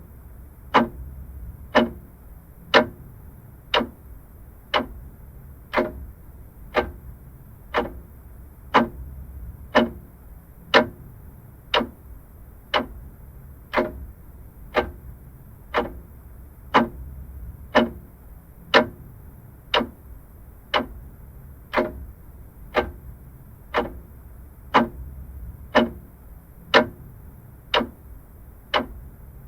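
Vintage clock ticking steadily, about one tick a second.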